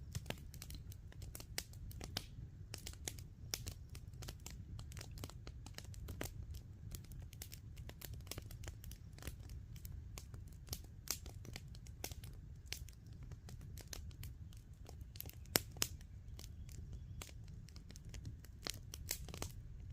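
Campfire crackling, with irregular sharp pops and snaps from the burning wood over a low steady rumble.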